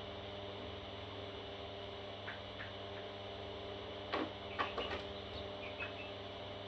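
A few faint, short calls from baby parrots, two near the middle and a small cluster around two thirds of the way in, over a steady electrical hum.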